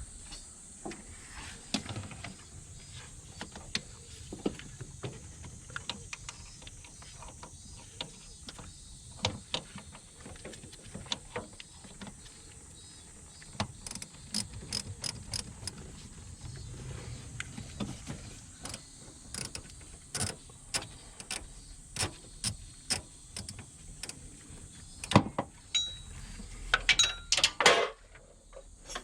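Hand tools at work on metal: irregular clicks and clinks, growing busier and louder in the last few seconds.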